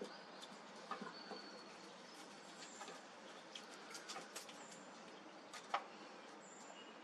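Scattered sharp clicks and knocks of a squirrel handling and gnawing a nut, the loudest a little before the end, over a steady hiss with a few short high bird chirps.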